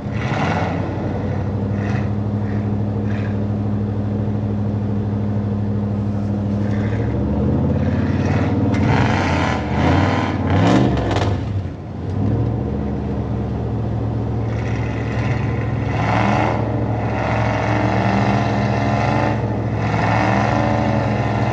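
Truck engine running hard under load, revved up and down a few times about eight to twelve seconds in, then held steady: a truck straining on a tow strap to pull a mud truck stuck in the mud.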